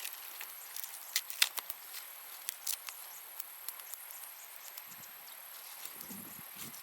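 Steady high-pitched insect buzz, with scattered sharp clicks and snaps throughout and a few soft low thuds near the end.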